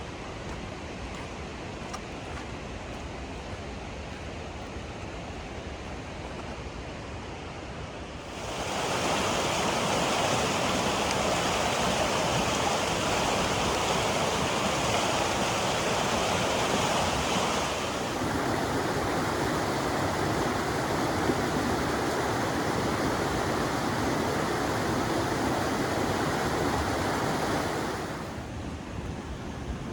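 Rushing water, a steady unbroken roar. It becomes much louder a little over a quarter of the way in, changes tone about halfway through, and drops back near the end.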